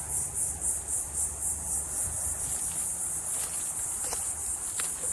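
A chorus of insects in the woods, a high-pitched pulsing drone at about three pulses a second, with a couple of faint ticks near the end.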